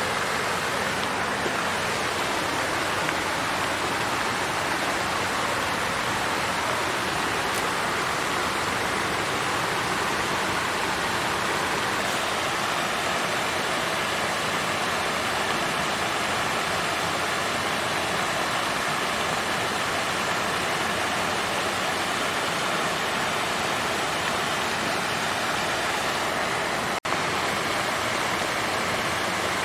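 Water fountain running: a steady, even rush of flowing water, broken only by a split-second dropout near the end.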